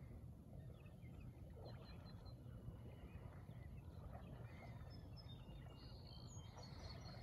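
Near silence: faint scattered bird chirps and calls over a low steady outdoor rumble, with the calls growing busier about five seconds in.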